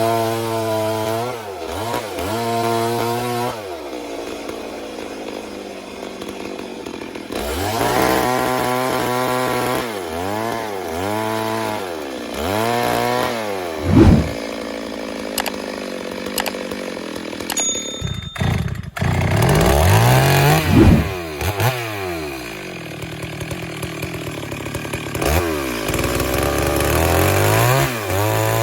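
Stihl two-stroke chainsaw engine repeatedly revving up and dropping back, with short spells near idle between the rises. There is a brief break in the sound about two-thirds of the way through.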